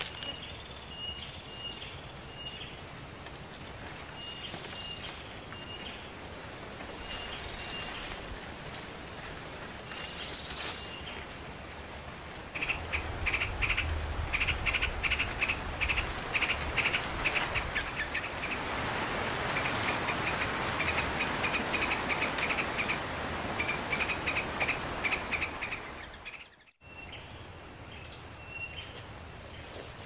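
A small bird chirping: short high notes in little groups, then from about halfway a louder, faster run of repeated chirps over a steady rushing noise, broken by a brief gap near the end.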